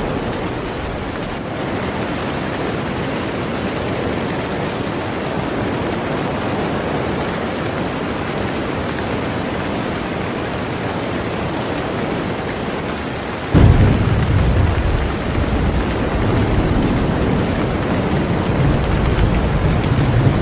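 Heavy rain falling steadily on a boat. About two-thirds of the way through, a deep rumble of thunder breaks in suddenly and rolls on.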